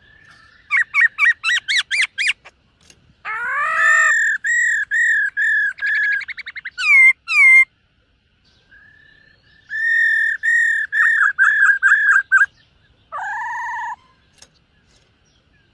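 Black-throated laughingthrush singing loud, clear whistled phrases: a quick run of rising notes, a string of repeated slurred whistles running into a fast trill, then after a short pause another string of repeated whistles.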